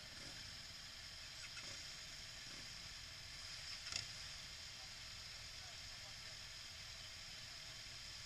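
Steady wind and road noise on a moving motorcycle, with the engine low and muffled underneath. A single sharp click about four seconds in.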